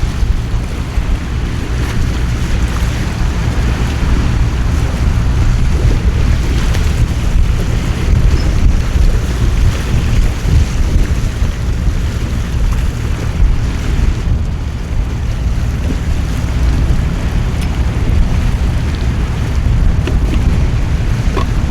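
Storm noise of heavy rain and gusting wind, with wind buffeting the microphone as a steady low rumble.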